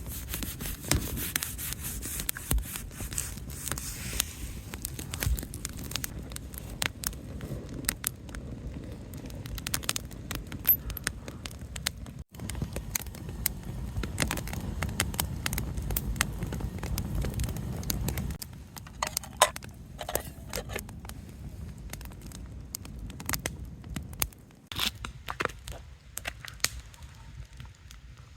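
Campfire crackling, with many small sharp pops over a low, even rumble; the sound breaks off abruptly about twelve seconds and again about twenty-four seconds in.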